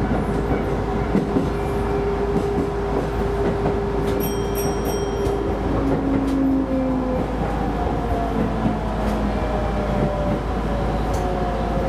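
Keisei Line electric train running, heard from inside the car: a steady rumble of wheels on rail under a motor whine. A brief high ringing comes about four seconds in, and in the second half a whine slowly falls in pitch.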